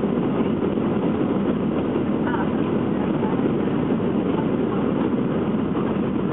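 Steady cabin noise inside a Boeing 737-400 on approach: the CFM56 jet engines and the airflow past the fuselage giving an even, unchanging rush.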